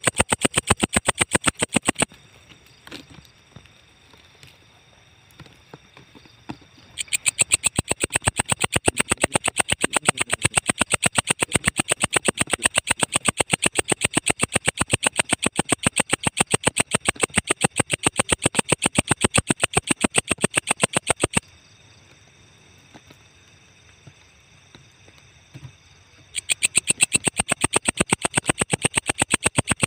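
Walang ecek, an Indonesian singing insect, calling in a fast, even train of high-pitched ticking pulses. It calls in bouts: it stops about two seconds in, resumes around seven seconds in, pauses again around twenty-one seconds, and starts again near the end.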